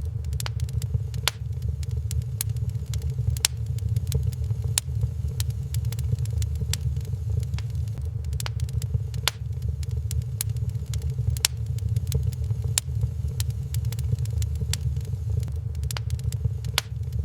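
Wood fire crackling, with sharp pops and snaps at irregular intervals over a steady low rumble.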